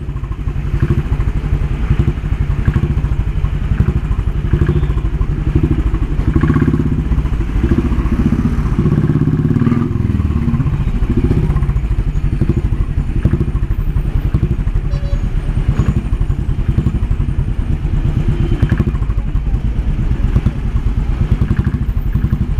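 Royal Enfield Bullet's single-cylinder engine running through an aftermarket 'Indori' silencer, giving a steady, loud, rapid thumping exhaust note in the old Bullet style.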